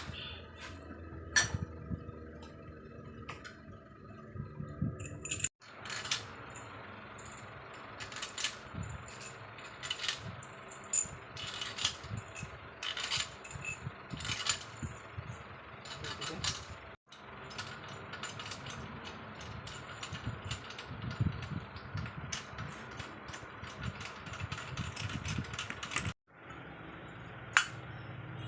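Metal tools and engine parts clinking and clicking as an engine is assembled by hand: scattered sharp knocks over a low steady background, cut off abruptly three times.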